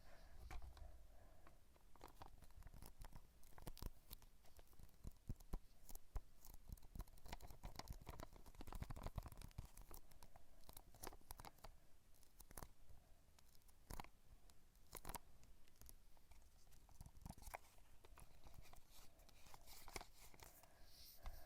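Faint close-miked ASMR sounds: irregular small clicks and crackles, with a few sharper ones standing out.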